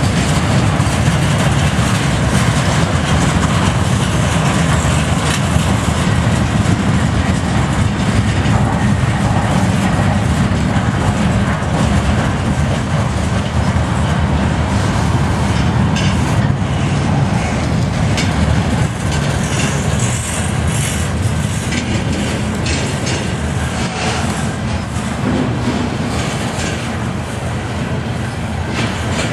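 Freight train of bulkhead flatcars loaded with steel slabs rolling past at close range: a steady, heavy rumble of steel wheels on rail, with sharp clicks from the wheels over the track in the second half.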